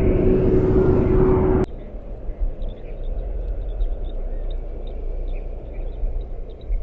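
Loud jet aircraft engine noise with a steady whine, cut off abruptly about one and a half seconds in. After that comes a quieter low rumble with faint, scattered chirps.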